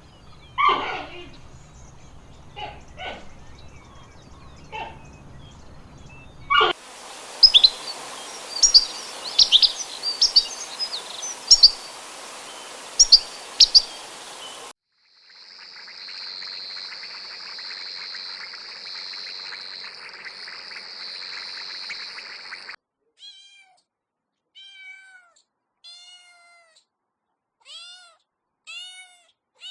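A run of different animal-sound clips, one after another: short calls over a low hum, then a stretch of many high chirps over a hiss, then a steady high trilling, and finally short, widely spaced chirps that glide downward.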